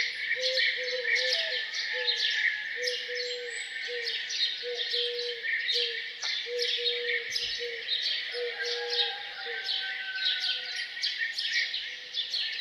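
Dense chorus of songbirds chirping and twittering, with a short low note repeated over and over underneath, about twice a second.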